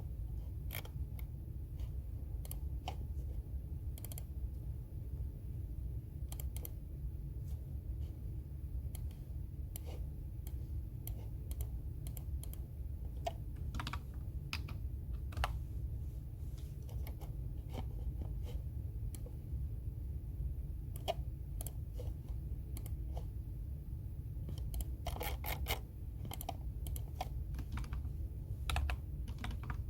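Typing on a computer keyboard: irregular keystroke clicks in uneven runs, with a quicker flurry near the end, over a steady low background hum.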